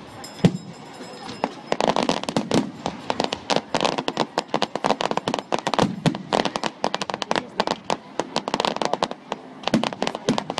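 Fireworks going off in rapid, crackling volleys of sharp bangs. A few scattered bangs come at first, then from about two seconds in a dense, continuous run of pops and cracks.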